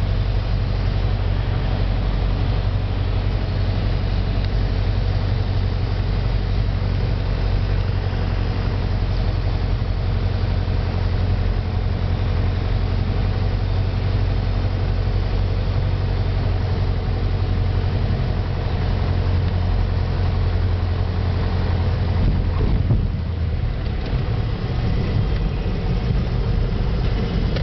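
Small airplane's piston engine and propeller droning steadily. About 23 seconds in, the even drone breaks up into a rougher, uneven low rumble.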